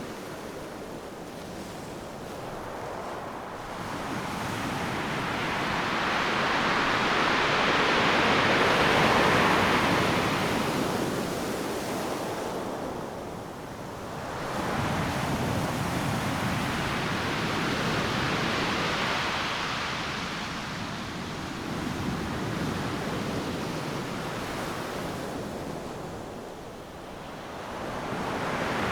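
Ocean surf: waves breaking and washing up a beach, a continuous rushing that swells and fades as each set comes in. The biggest surge peaks about a third of the way in, another follows around the middle, with brief lulls between.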